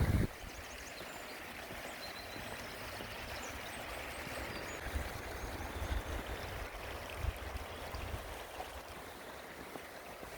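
A woodland stream running, a steady noise of flowing water.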